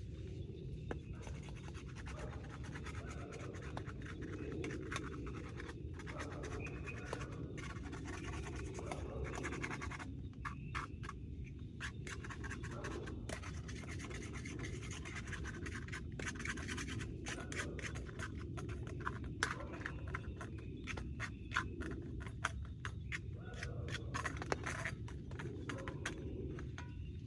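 Scratching with many short, irregular clicks over a steady low rumble.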